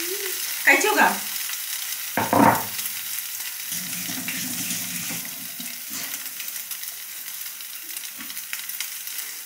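A slice of milk-and-egg-soaked bread frying in butter in a pan, with a steady high sizzle. Two short voice sounds come about one and two seconds in.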